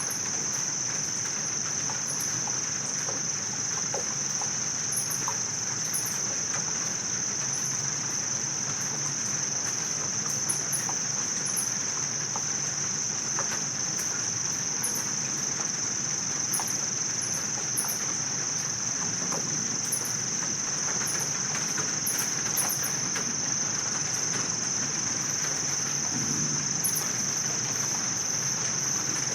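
Insects trilling on one steady high note, over an even hiss of light rain pattering, with brief high chirps scattered throughout.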